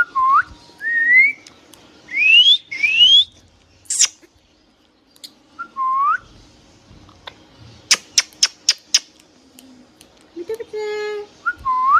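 Pet rose-ringed parakeet (Indian ringneck) whistling: a string of clear single whistles, some dipping and hooking back up, others gliding steeply upward, with a quick run of sharp short chirps about eight seconds in and a brief harsher pitched call near the end.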